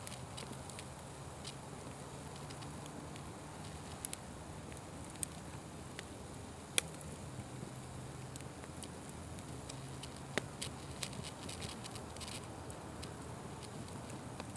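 Wood fire crackling, with irregular sharp pops and snaps over a steady low background. The loudest pop comes about seven seconds in, another a few seconds later.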